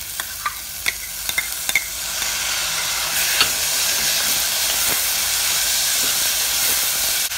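Chopped tomatoes going into hot oil with frying onions in a stainless steel pressure cooker: a few light clicks of a spoon against the bowl and pot, then sizzling that grows louder about two seconds in and holds steady as a steel ladle stirs the mixture.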